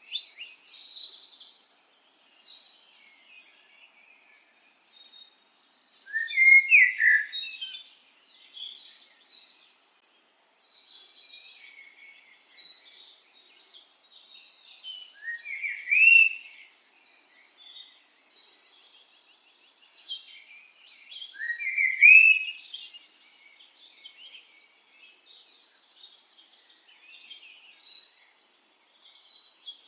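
Songbirds singing: loud, rising song phrases come about every six seconds, with softer twittering and chirps in between.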